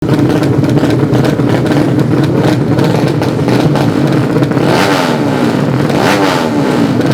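Racing 200cc underbone motorcycle engines running at high revs, a loud, dense engine sound. Its pitch falls twice, about five and six seconds in.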